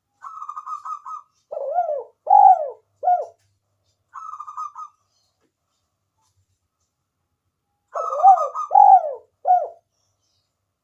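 Spotted dove (tekukur) cooing. A rolling purr is followed by three arched coos, then a lone purr, then the same purr-and-three-coos phrase again near the end.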